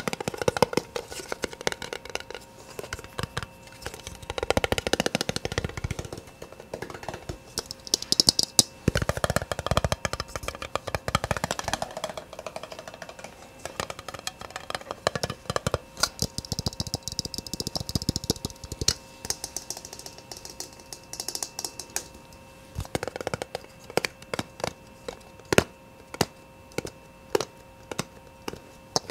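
Fast ASMR tapping: rapid, dense taps run together for most of the stretch, then slow to single taps about two a second for the last several seconds.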